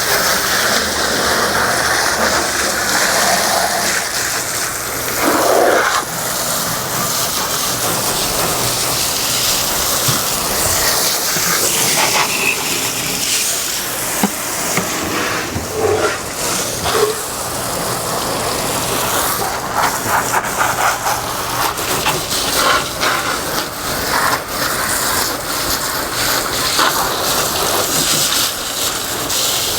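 Steady rush of water spraying and splashing from a hose while a boat is washed down, with a few brief knocks and splashes in it.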